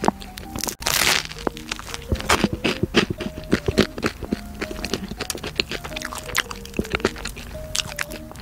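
Close-up crunching and crackling of a crispy oven-reheated bagel crust being bitten and chewed, many sharp crackles with a louder crunch about a second in, over soft background music.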